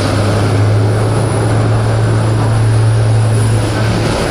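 Airbus A400M's four TP400 turboprop engines and propellers running at high power, a loud steady drone with a constant low hum underneath.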